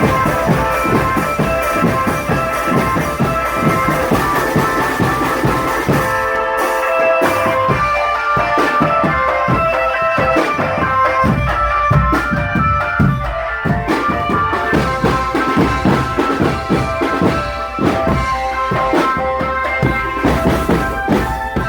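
Marching drum band playing: a dense beat of drums with a melody of held notes over it.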